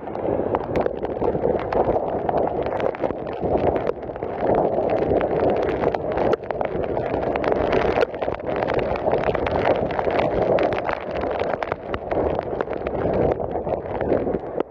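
Strong storm wind buffeting the microphone in uneven gusts, with many sharp rattles and knocks.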